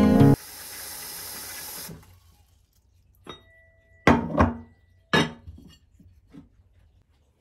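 Dishes being handled: a steady hiss, then about five sharp clinks over three seconds, one left ringing briefly. The guitar music stops right at the start.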